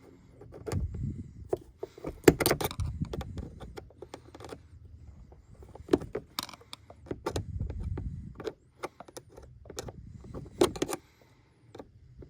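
Irregular clicks, clinks and knocks of hand tools and metal parts being handled, with the sharpest strikes about two seconds in and again near the end.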